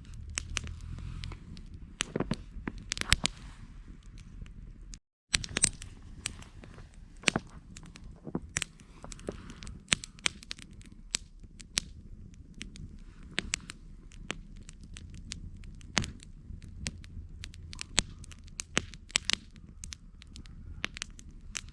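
Wood campfire crackling, with frequent irregular sharp pops over a low steady rumble of the flames. The sound cuts out completely for a split second about five seconds in.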